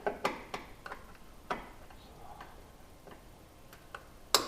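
Irregular sharp metallic clicks and taps: a small flathead screwdriver working at the tab of a windshield trim retaining clip. The loudest click comes near the end.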